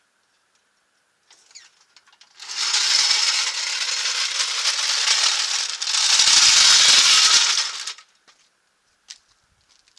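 Makita 18V cordless impact wrench running for about five seconds. It spins a lug nut on, then hammers louder for the last second and a half as the nut seats. Light clicks of handling come before and after.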